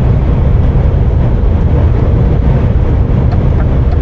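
Steady low drone of a semi-truck cab at motorway speed: the engine and tyres on the road, heard from inside the cab. A few faint ticks near the end.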